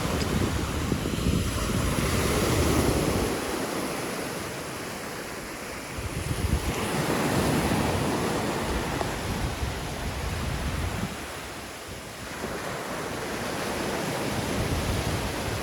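Sea waves breaking and washing up a beach, the surf swelling and fading in three surges, with wind rumbling on the microphone.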